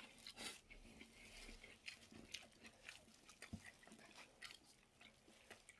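Faint chewing and crunching of crisp food, with many small, irregular crackly clicks.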